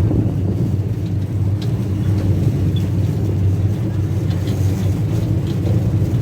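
Engine of a road-going tourist train running steadily with a low drone.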